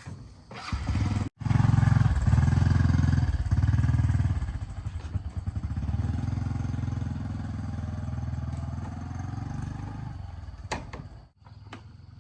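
A motor running loudly and steadily, strongest for the first few seconds, then a little quieter until it cuts off near the end.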